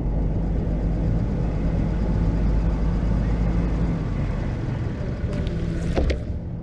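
Snow-plow truck engine running steadily, with the engine note shifting about four seconds in and a brief squeak near the end.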